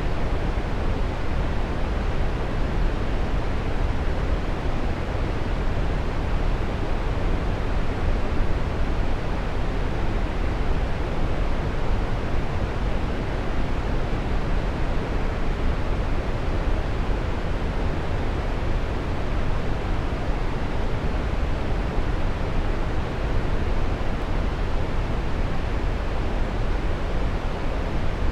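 Waterfall: a steady, even rush of falling water, deepest in the lows, with no change in level.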